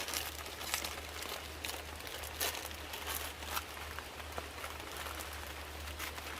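Rain falling steadily, with irregular sharp drop hits.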